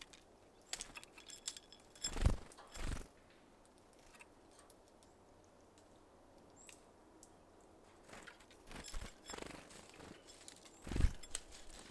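Small birds at a feeder: scattered taps and knocks as they move about and peck at sunflower seeds. There are louder thumps about two seconds in, again half a second later, and near the end, with a run of lighter taps just before the last.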